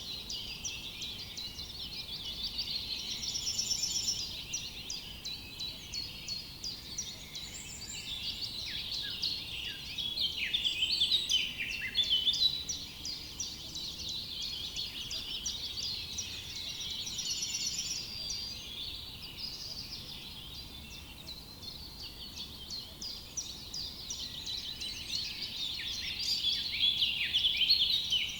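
A chorus of several songbirds singing at once: rapid, overlapping chirps and trills that carry on without a break, growing louder twice, about a third of the way in and near the end.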